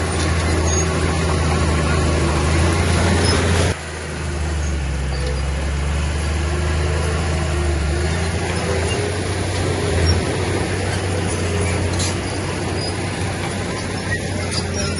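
Heavy diesel earthmoving machinery running under load, a steady deep engine drone. It drops abruptly about four seconds in, then builds back up, with a few sharp clicks later.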